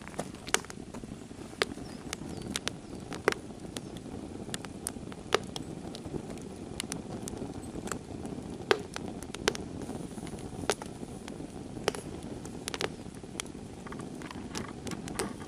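Swedish torch (an upright log cut lengthwise and burning from the inside) crackling: irregular sharp pops and snaps over a steady low noise.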